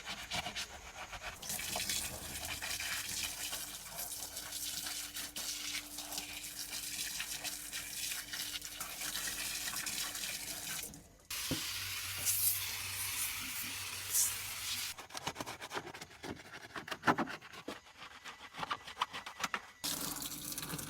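Water hissing and splashing from washing a car, in several edited clips that cut off abruptly about eleven seconds in and again near the end.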